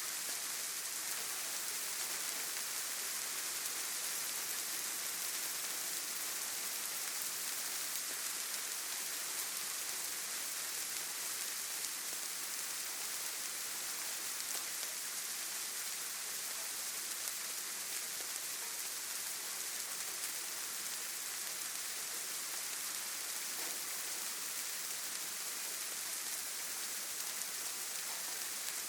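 Steady rain falling, an even hiss with the most energy in the high range.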